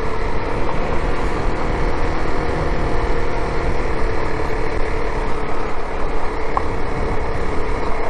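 Motorcycle running steadily while being ridden, with wind rushing over the microphone and a steady engine hum.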